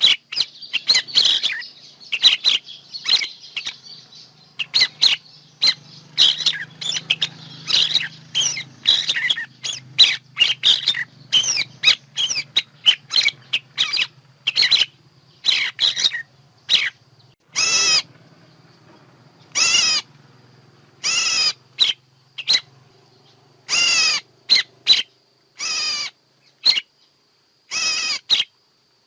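Songbird calls played as a lure for bird trapping: a dense run of quick chirps and notes, then, from a little past halfway, longer calls spaced about a second or two apart.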